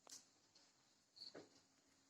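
Near silence, with a faint click just after the start and a faint short sound a little over a second in.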